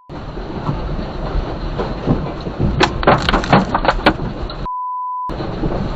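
Loud rumbling, clattering noise with many sharp knocks. About five seconds in, a short steady censor bleep blanks out everything else for half a second.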